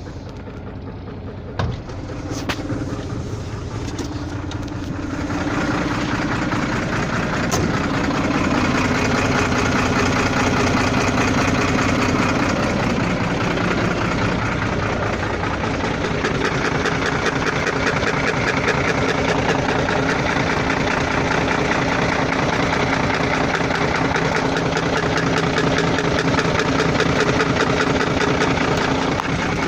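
Volvo FL6 truck's diesel engine running, with a knock that the owner cannot explain and that comes and goes. The engine gets louder about five seconds in.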